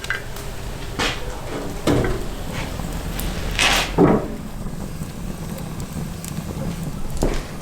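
Kitchen utensils and dishes being handled during food preparation: a few separate knocks and clatters a second or two apart, over a low steady background.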